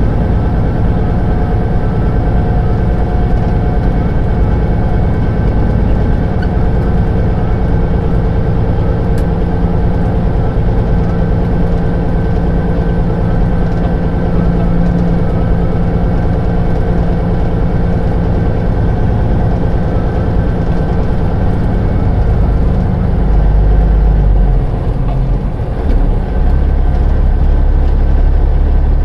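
Semi truck pulling a lowboy trailer, its diesel engine running steadily while driving. The low engine note changes about three-quarters of the way through, with a brief dip in loudness.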